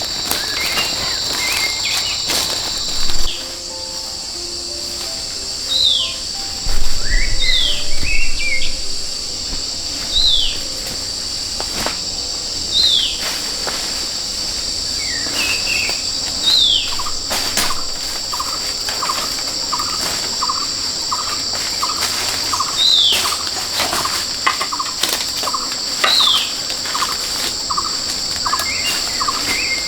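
Forest ambience: insects drone steadily at a high pitch while a bird gives short down-slurred chirps every couple of seconds. From about halfway a regular pulsed note joins, roughly one and a half pulses a second, and a few dull thumps come in the first third.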